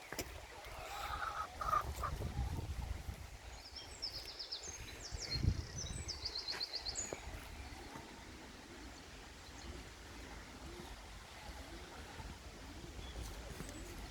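Small songbird singing two short trilled phrases of rapid high notes, a few seconds in, over a steady low background rumble.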